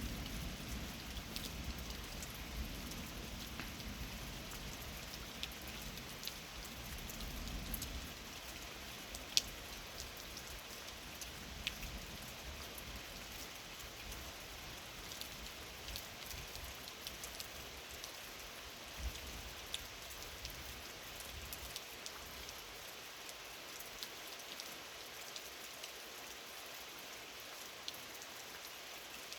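Steady rain from a summer thunderstorm, with single drops ticking here and there. A low thunder rumble dies away in the first eight seconds or so.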